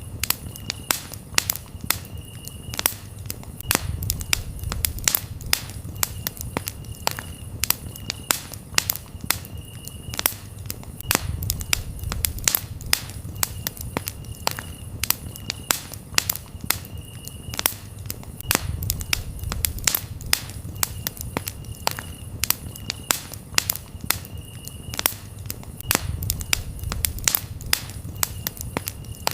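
Campfire crackling, with dense sharp pops and snaps over a low rumble of the flames that swells and fades every seven seconds or so. A cricket chirps in short trills behind it.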